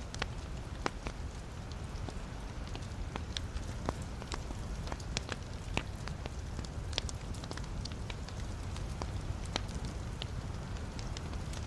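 Wood logs burning in a fireplace, crackling: irregular sharp pops and snaps scattered over a steady low rumble of the fire.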